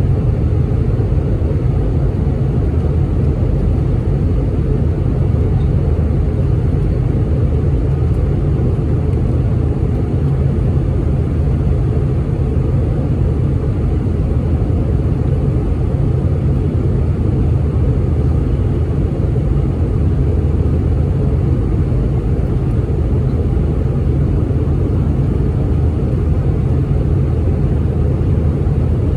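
Steady, even cabin roar of an Airbus A319 jet airliner in flight: a deep rumble of engine and airflow noise with no change in pitch or level.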